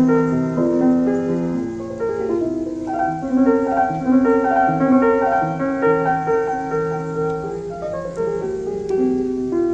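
Background piano music: a steady run of notes over sustained lower notes.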